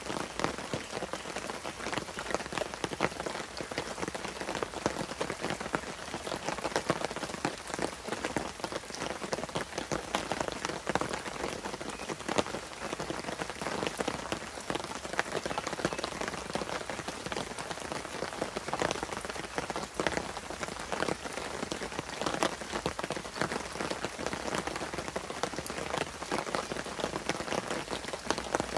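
Light rain pattering on wet leaf litter: a dense, steady scatter of small drops.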